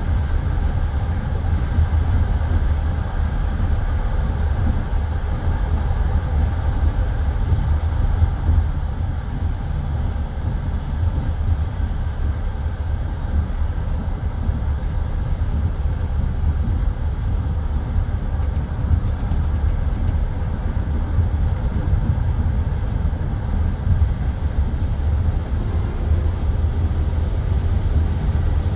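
Passenger railway carriage running along the track between stations, heard from inside the car: a steady low rumble of the wheels and running gear on the rails.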